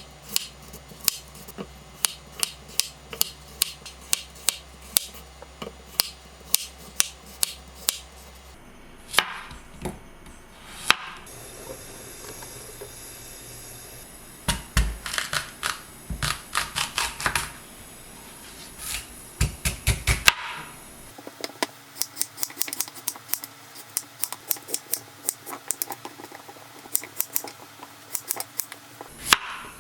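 Kitchen knife chopping vegetables on a cutting board, sharp regular knocks about two to three a second, with a stretch of hiss and scattered louder knocks in the middle.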